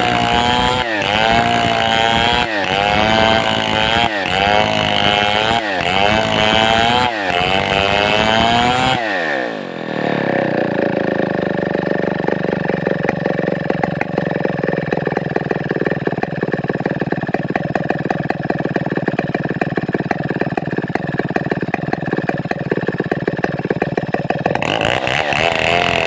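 Two-stroke Stihl 070-type chainsaw running at high throttle, its pitch rising and falling about once a second. About nine seconds in it drops to a steady, ticking idle, then revs back up near the end.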